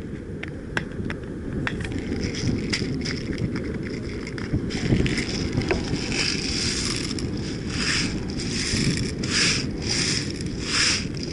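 Wind rumbling on the microphone, with a few sharp clicks early on and rhythmic crunching, about two a second, in the second half.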